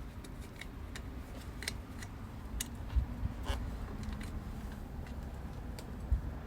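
Scattered light clicks and taps, with a couple of duller knocks about three seconds in, over a low steady hum.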